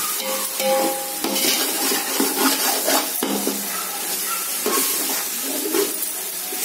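Ginger-garlic paste and onions sizzling in hot oil in a metal pot, with a metal ladle scraping and knocking against the pot as it stirs. The paste is being fried until it loses its raw smell.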